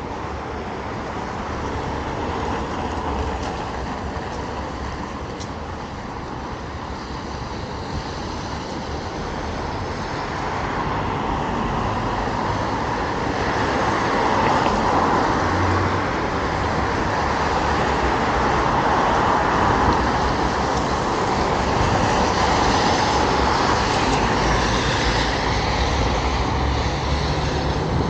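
Road traffic on a city street: cars and heavier vehicles passing with tyre and engine noise, growing louder about a third of the way through and staying up.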